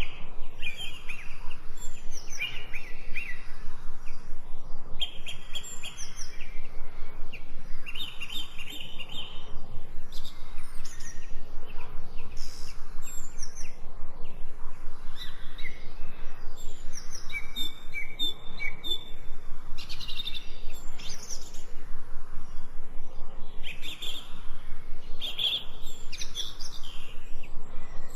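Several songbirds chirping and singing, short calls and trills overlapping one after another over a steady background hiss.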